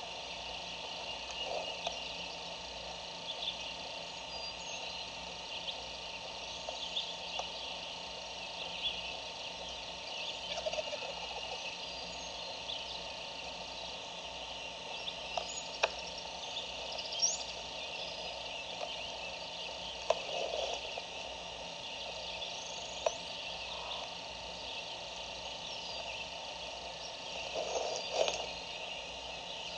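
Wild turkey gobbler gobbling faintly from a distance, about four gobbles spaced several seconds apart, over a steady high chorus of songbirds and insects.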